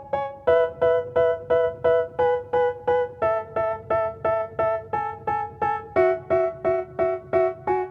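Background piano music: an even run of repeated chords, about three a second, the harmony shifting every couple of seconds.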